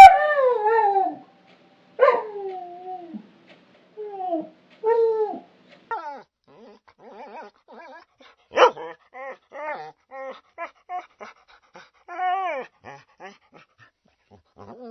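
Dog whining and crying. It opens with long whines that fall in pitch, then breaks into shorter whimpers and yips, with one sharp, loud yelp about halfway through.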